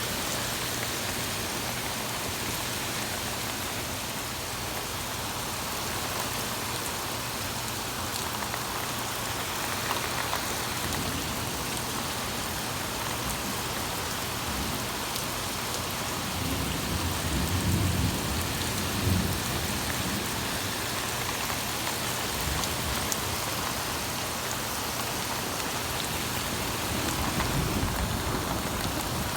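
Torrential rain pouring down in a steady hiss, with a low rumble of thunder a little past halfway through.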